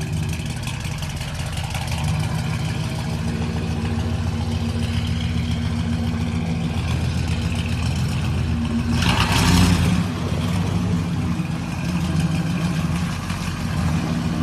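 Diesel truck engine running with a steady low note, with a louder rush about nine seconds in.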